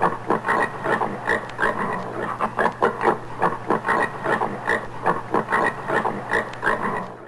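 Common warthog grunting in a rapid, continuous series of short grunts, several a second, over a steady low hum.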